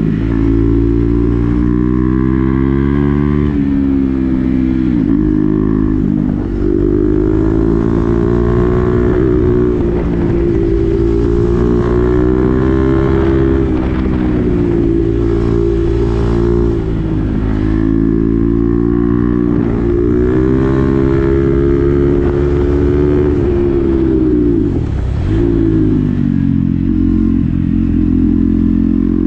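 KTM Duke 390's single-cylinder engine running through an SC-Project exhaust with the dB killer fitted, held at fairly steady revs while riding. Several times the note drops briefly and climbs back.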